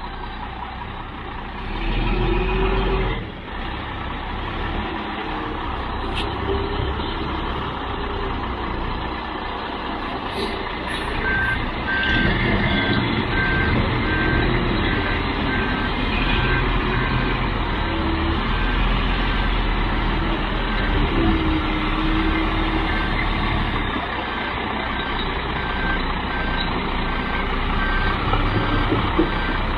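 Concrete mixer truck backing up: its diesel engine running steadily, with its reversing alarm beeping at an even rhythm from about a third of the way in.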